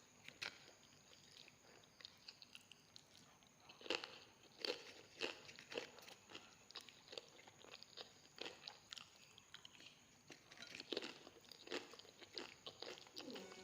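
A person biting and chewing crunchy food close to the microphone: irregular crisp crunches, the loudest about four seconds in.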